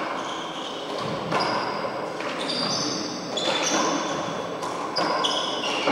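Handball rally: the small rubber ball smacked by hand and off the court walls about every second, with sneakers squeaking sharply on the court floor between the hits.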